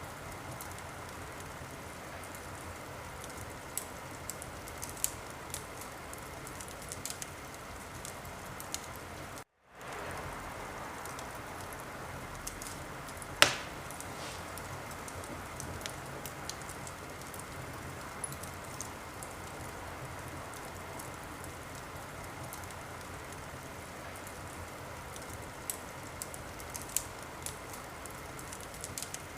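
Wood fire crackling in a fireplace: a steady hiss with scattered small pops and one much louder snap about thirteen seconds in. The sound cuts out completely for a moment about nine and a half seconds in.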